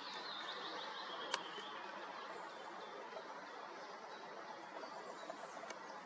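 Outdoor marsh ambience: a bird gives a rapid series of short, high chirps during the first second and a half over a steady background hiss. A sharp click sounds about a second in, and a fainter one near the end.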